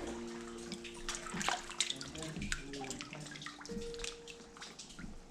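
Seawater sloshing and lapping among rocks in a sea cave, with many quick drips and splashes.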